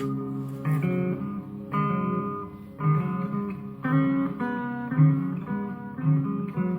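Guitar playing a slow phrase, a chord or note struck about once a second and left to ring.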